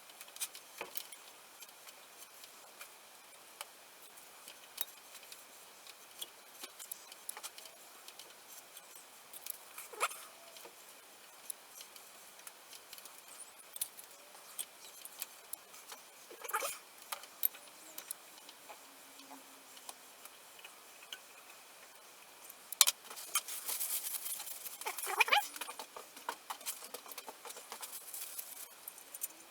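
Steel bar being hand-threaded M10 with a die held in a vise: scattered light metal clicks and scrapes from the die stock, with a longer stretch of scraping near the end.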